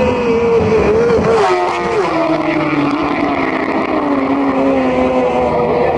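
Racing superbike engine at high revs, its note falling steadily in pitch over several seconds, with a brief sharper sweep about a second and a half in.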